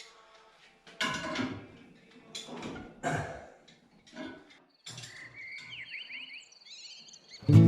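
A few separate knocks and clatters, then a bird chirping with quick sweeping whistles. Acoustic guitar music starts loudly right at the end.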